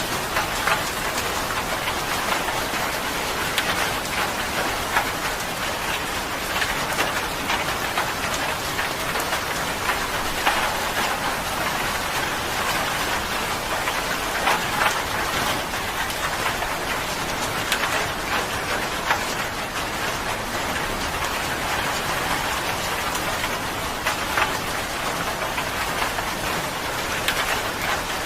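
Steady rain falling, a dense even hiss with the sharper taps of individual drops striking a surface scattered all through it.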